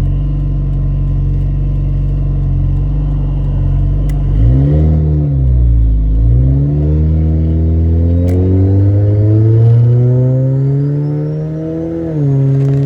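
Nissan 240SX engine pulling through the stock 300ZX twin-turbo automatic transmission. The engine note rises and falls about halfway through, then climbs steadily as the car accelerates, and drops sharply near the end as the automatic upshifts.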